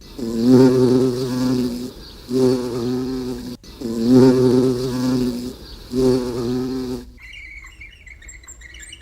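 A toad calling: four buzzy, pulsing trills of about one to two seconds each. Faint high chirping sounds in the background near the end.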